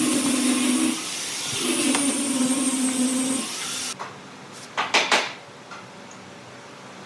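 A hand-held power tool's motor running in two spells, then cutting off suddenly about four seconds in, followed by a few short knocks.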